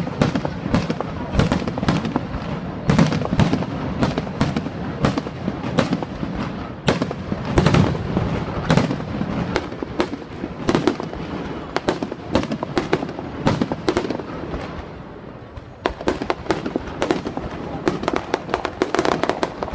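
Fireworks display: a dense, irregular stream of bangs and crackles over a low rumble, easing off briefly about three-quarters of the way through before building again.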